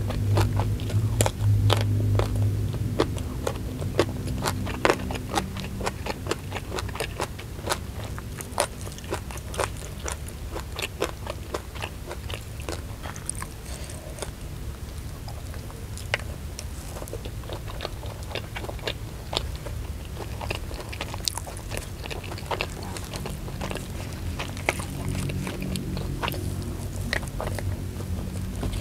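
Close-miked eating sounds: crisp bites and chewing of raw small round eggplant, then fried chicken, as many small crunches and clicks coming irregularly close together.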